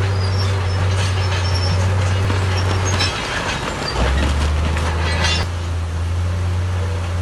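Heavy diesel engine of earthmoving machinery running under load, with scattered metallic squeaks and clanks. The engine note drops about three seconds in and comes back strongly a second later.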